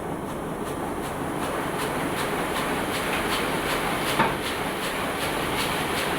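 Heidelberg SM 52 sheet-fed offset printing press running steadily, clacking about three to four times a second as it feeds sheets. One sharper clack comes about four seconds in.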